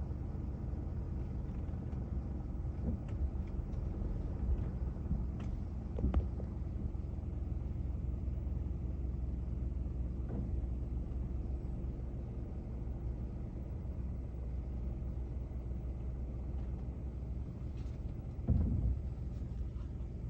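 A steady low motor rumble with a faint even hum, broken by a few faint clicks and a short louder knock near the end.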